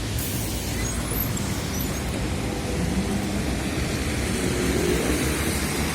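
TrolZa-5275.05 'Optima' trolleybus under way: steady rumble of the running bus, with a faint rising whine about three seconds in and again near the end.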